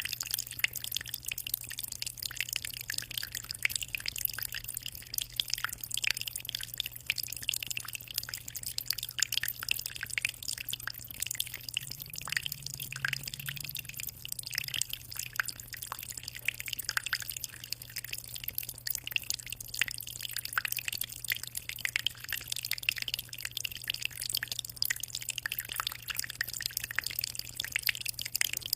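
Aquarium water trickling and dripping: a fast, dense patter of small drops, over a steady low hum.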